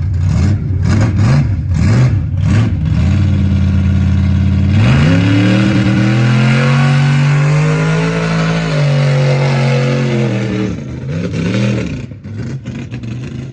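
Mud truck's engine revving in short blips, then held wide open for about six seconds as it makes its run through the mud pit, the pitch climbing and then easing, before a few more blips and dropping off near the end.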